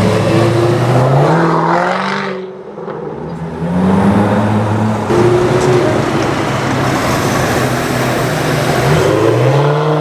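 Range Rover Sport SVR's supercharged V8 running through an Overfinch titanium exhaust, accelerating with its pitch rising, easing off briefly about two and a half seconds in, then pulling hard again.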